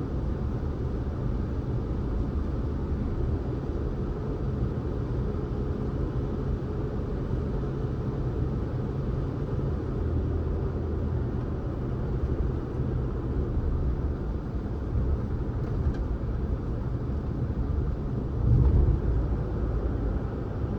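A car driving along a road: steady low rumble of tyres and engine, with a brief louder bump near the end.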